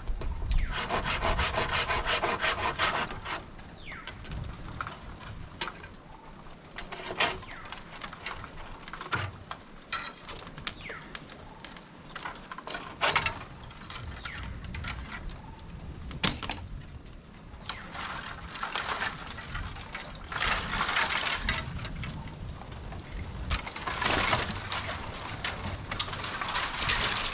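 Hand saw cutting wood in quick, even strokes for the first three seconds, then stopping. After that come a few sharp single knocks and two later stretches of rough scraping.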